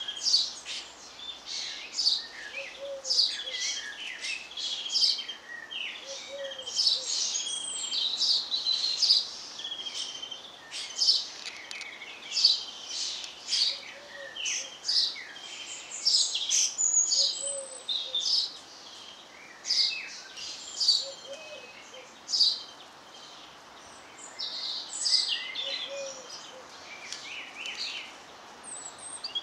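Several garden birds singing and chirping: a dense run of high chirps, whistles and trills, with a short low call repeating now and then underneath.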